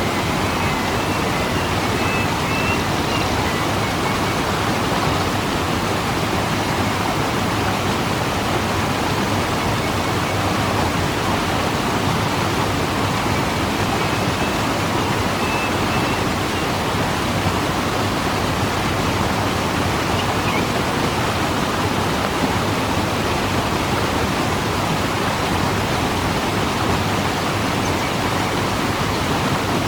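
Waterfall rushing: a steady, even roar of falling water with no change in level. A few faint high chirps come through it, near the start and again about halfway.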